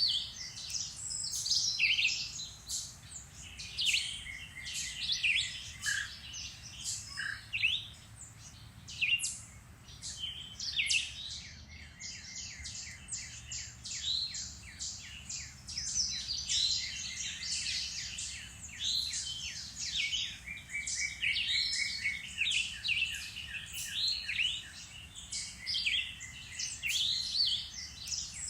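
Several songbirds singing and chirping at once, a dense, continuous chorus of quick high chirps and trills.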